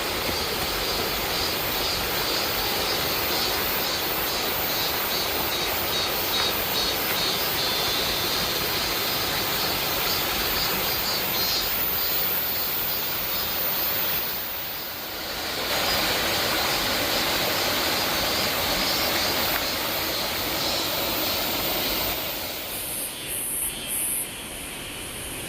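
Waterfall rushing steadily, a dense even roar of falling water, dipping briefly about halfway through and growing quieter a few seconds before the end.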